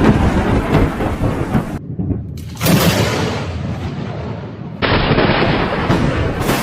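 Thunder from close lightning strikes: loud cracking claps and rumbling. Several clips are joined, so the sound cuts off abruptly about two seconds in, a new loud clap follows a moment later, and the sound changes again near five seconds in.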